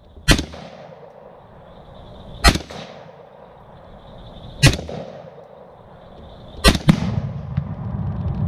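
Sig Sauer M400 rifle firing single shots about two seconds apart, each a sharp crack with a short echo; the fourth is followed almost at once by a second bang and then a low rumble.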